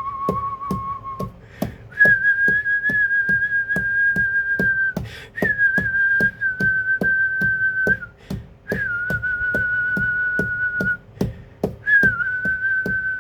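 A series of long whistled notes, each held steadily for two to three seconds after a short downward slide at its start, with brief gaps between. A steady rhythmic click, about three a second, runs underneath.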